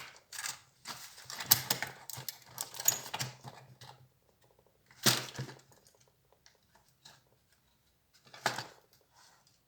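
Plastic and metal parts of an HP Compaq 6910p laptop clicking and clattering as they are handled and taken apart: a quick run of clicks for the first few seconds, then two louder single clatters further on.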